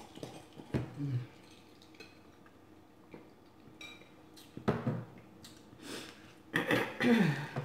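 Close-miked eating sounds: a woman chewing and smacking on seafood-boil food, with scattered wet clicks, and a short hummed "mmm" near the end.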